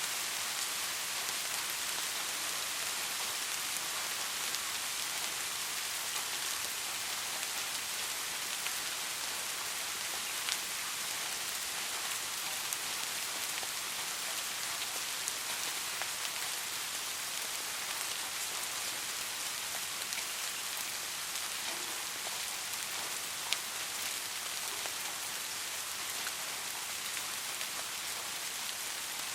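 Steady rain falling, with scattered individual drops ticking through it and one sharper tick about two-thirds of the way through.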